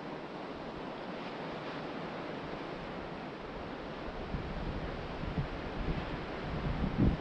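Ocean surf washing steadily onto a beach. About four seconds in, wind starts buffeting the microphone in low gusts that grow stronger near the end.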